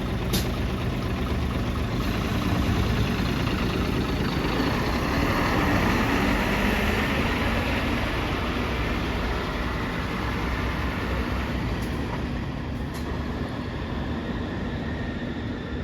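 City bus diesel engine idling steadily after start-up, a low even drone. In the middle a louder swell of noise builds and then eases off.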